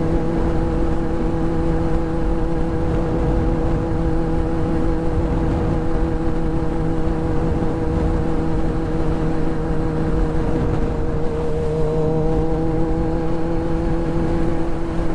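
Motorcycle engine running at a steady cruising speed, a constant even drone that holds one pitch throughout, over a low rumbling noise.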